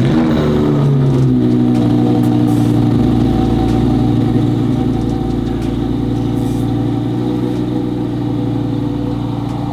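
A Lamborghini's engine fires up suddenly, its revs falling away over about a second into a steady idle.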